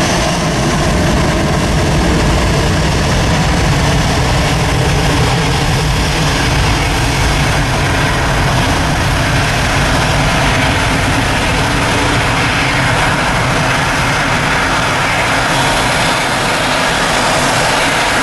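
Airbus A320's jet engines running at takeoff power: a loud, steady roar heavy in the low end.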